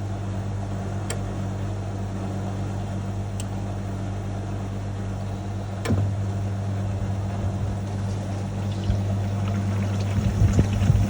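National NA9450PN pulsator washing machine running, a steady electrical hum with water pouring and sloshing inside the tub. A sharp click about six seconds in, after which it runs a little louder, with a few irregular knocks near the end.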